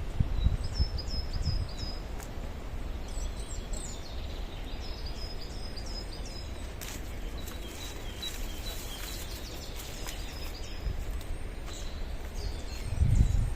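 Small songbirds giving short, high chirping phrases, repeated several times in the first half and fainter later on, over a steady low rumble that grows louder near the end.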